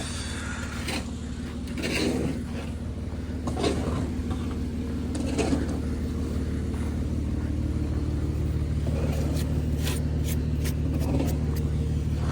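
An engine running steadily at idle, with a few scraping strokes in the first few seconds and a short run of light clicks near the end.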